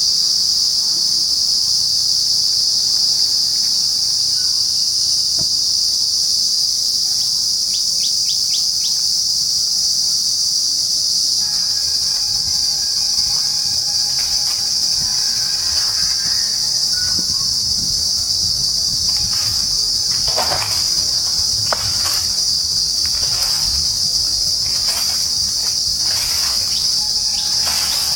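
A steady, high-pitched chorus of insects in the trees that runs unbroken throughout. Over the second half, birds call in short, repeated notes.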